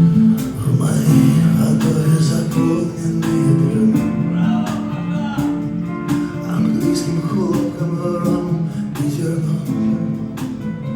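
Live band playing an instrumental passage: acoustic guitar strumming over a steady percussive beat.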